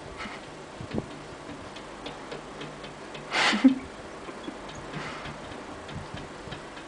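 A cat pawing and scratching: scattered light clicks and taps, with one brief, louder scrape about three and a half seconds in.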